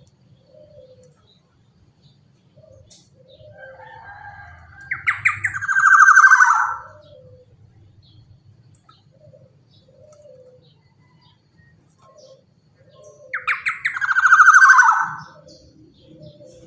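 Black-naped oriole (kepodang) giving two loud, harsh, rasping calls that slide down in pitch, about five and thirteen seconds in, with soft short notes between them.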